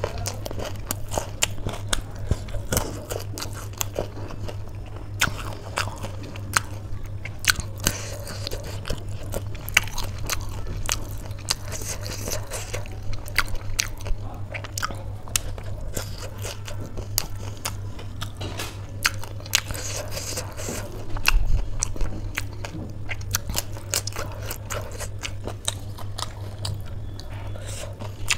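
Close-miked chewing and crunching of crispy chaat, with many sharp crunches in quick succession, over a steady low hum.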